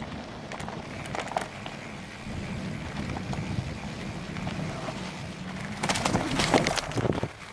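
Bicycle riding noise: wind on the action camera's microphone and tyres rolling over an uneven path, with a few clicks about a second in and a louder burst of clicks and rattles near the end.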